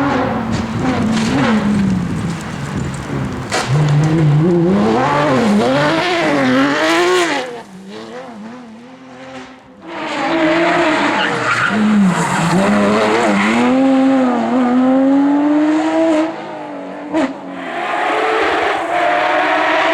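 Porsche 911 GT3 rally car's flat-six engine revving hard, its pitch climbing and dropping repeatedly through gear changes. It goes quieter for about two seconds around eight seconds in, then comes back at full revs.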